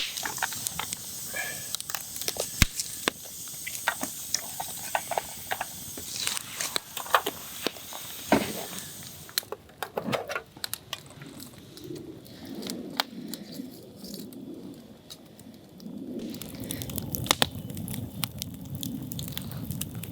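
Campfire wood crackling, with irregular sharp pops and snaps throughout. A steady high hiss runs under it for the first nine seconds or so, then stops.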